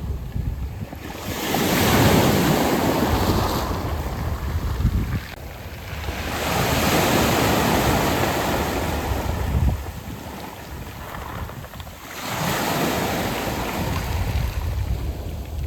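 Sea waves washing in and drawing back on a beach of smooth round pebbles (mongdol), three surges of surf in a row, each swelling and then easing off.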